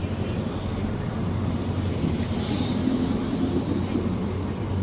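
Diesel engines of a Class 43 HST's power cars running steadily under power as the High Speed Train pulls away, a constant low hum.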